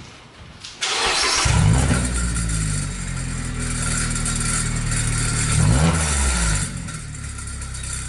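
2016 Mazda MX-5 Miata four-cylinder engine starting through an Invidia aftermarket exhaust with a deep note: it cranks and catches about a second in and runs at a fast idle. Shortly after the middle it gets one short rev, then drops to a lower idle.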